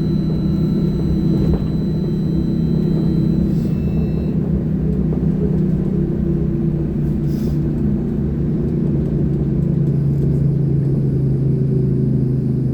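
Sinara-6254.00 trolleybus running: a steady rumble with a low electrical hum. A thin high whine stops about four seconds in, and the hum drops lower about ten seconds in.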